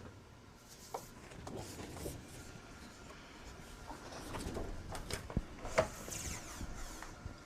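Sheets of cardstock being handled and cut on a craft table: paper rubbing and sliding, with scattered light clicks and knocks, busiest past the middle.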